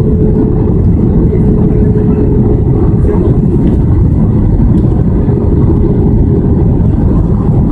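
Airbus A320 cabin noise: engines and airflow make a steady, loud, low roar, with a faint steady hum riding on top.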